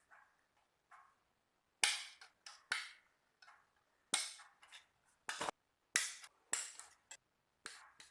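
About a dozen sharp clicks and knocks at irregular intervals, like hard plastic pieces being handled and set down.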